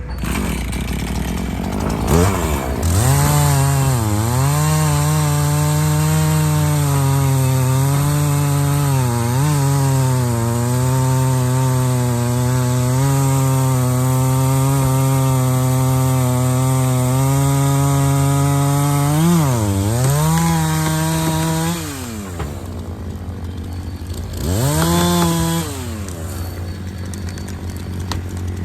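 Two-stroke chainsaw revving up about two seconds in and running at high speed through a cut in a maple log, its pitch wavering and dipping briefly a few times, then dropping back to idle, with one short rev near the end. A low steady engine hum runs underneath.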